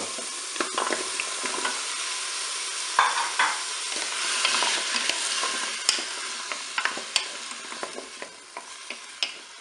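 Frozen beef meatballs, onions and peppers sizzling in hot olive oil in a Cookeo multicooker bowl on browning mode, while a wooden spoon knocks and scrapes against the bowl as they are stirred. The sizzle slowly dies down toward the end as the frozen meatballs cool the oil.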